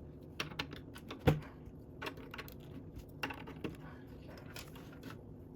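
Plastic Lego pieces clicking and clattering as they are handled and pressed onto the build: a scatter of short sharp clicks, the loudest just over a second in.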